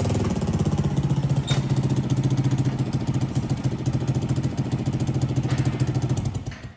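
Petrol engine of a 5.5 kW portable generator running steadily with a fast, even firing beat, then dying away near the end. A single short click about one and a half seconds in.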